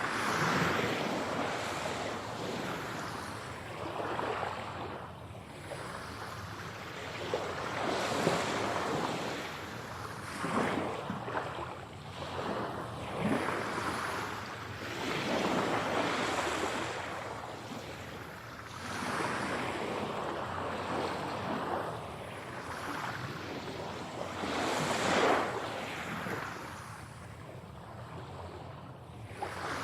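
Ocean waves breaking and washing up a shore, each surge swelling and then receding every few seconds.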